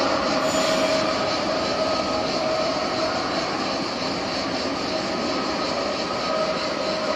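Regional train pulling away down the station tracks: a steady running noise with a faint hum, growing slightly quieter as it goes.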